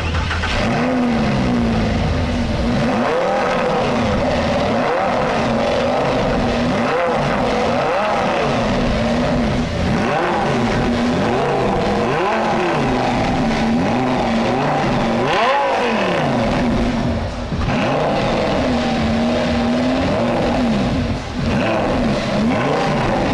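A vehicle engine being revved again and again, its pitch climbing and falling every second or two, with a few stretches held at high revs and two brief drops in level near the end.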